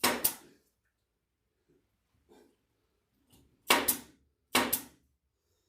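Staple gun firing three times into the pool table's bed felt, short sharp snaps: one at the start, then two more a little under a second apart past the middle, with faint handling noises in between.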